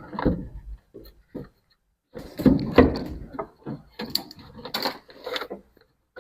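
Wooden boards being handled: irregular knocks, clatter and scraping, busiest in the middle few seconds.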